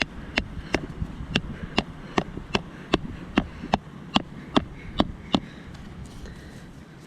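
A rock used as a hammer knocking a tent peg into the ground with quick, even strikes, about two and a half a second, which stop about two-thirds of the way through.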